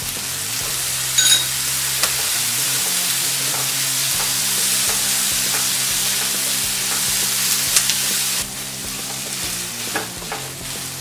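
Diced onion, bell peppers and sweet corn sizzling in butter in a kadhai as they are stir-fried with a wooden spatula, with a few sharp knocks of the spatula against the pan. The sizzle eases a little towards the end.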